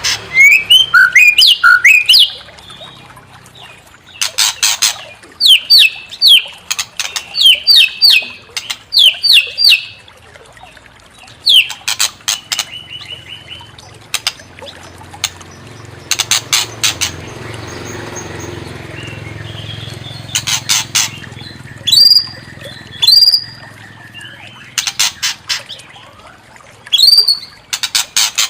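White-rumped shama (murai batu) singing: loud phrases of rapid clicking trills and sharp, repeated down-slurred whistles, broken by short pauses.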